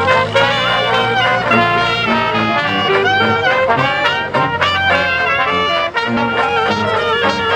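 Music led by brass instruments, several notes sounding together and changing steadily.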